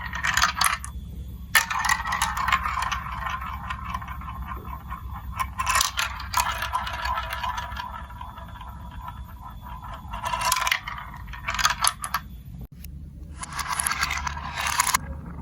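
Marbles rolling and clattering along plastic building-block marble-run track, a continuous scraping rattle with clicks as they hit the pieces, swelling louder several times.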